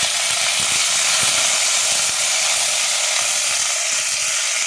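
Sliced okra frying in hot oil: a loud, steady sizzle with fine crackling as the freshly added okra sautés.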